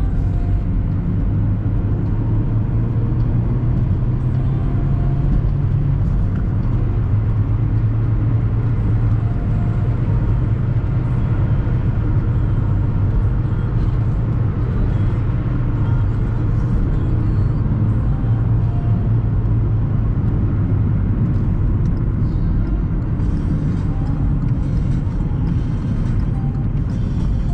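Car driving at a steady speed: a continuous low engine hum over even road noise.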